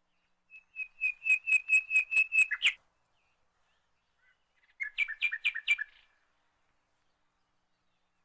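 A small bird chirping: a quick run of about a dozen short, high, even notes lasting about two seconds, then after a pause a shorter run of similar notes.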